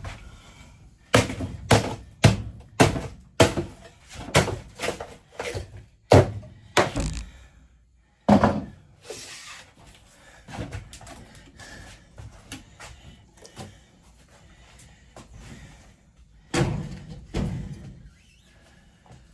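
Repeated heavy bangs and thuds on wooden cabinetry being knocked apart: about ten in quick succession, one more after a short pause, then lighter clattering and two more bangs near the end.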